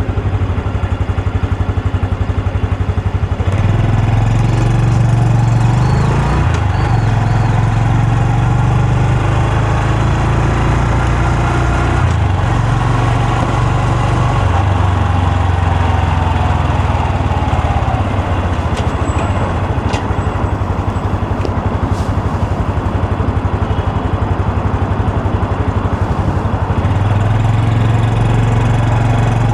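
Honda Super Cub C125's single-cylinder four-stroke engine and exhaust running steadily under way. The engine note picks up about three and a half seconds in, eases off midway and picks up again near the end.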